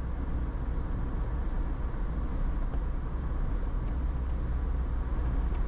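Steady road and engine noise inside a moving vehicle's cabin, a low, even rumble.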